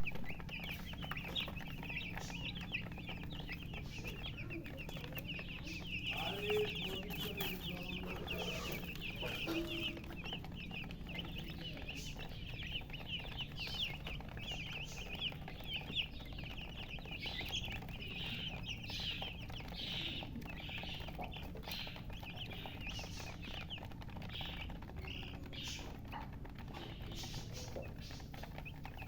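A brood of baby chicks peeping continuously, a dense chorus of short high chirps, which the uploader puts down to thirst for drinking water. A steady low hum runs underneath.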